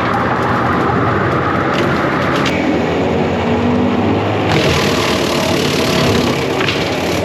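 John Deere 333G compact track loader's diesel engine running hard under load. A higher whine drops away about two and a half seconds in, and a bright hiss comes in about four and a half seconds in, with a few short cracks early on.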